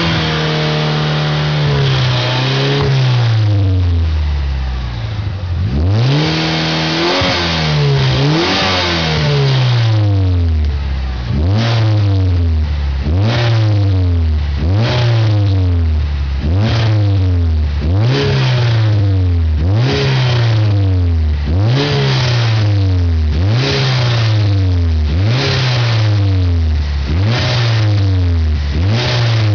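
Mitsubishi Lancer Evolution engine being revved over and over: a few longer revs first, then short blips about every second and a half, each rising quickly and falling back. The owner is trying to bring out a rattle or vibration from the car.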